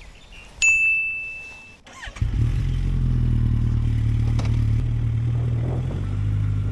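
A single electronic beep lasting about a second, then the 2012 Suzuki GSX1250FA's inline-four engine is started a little after two seconds in and settles into a steady idle.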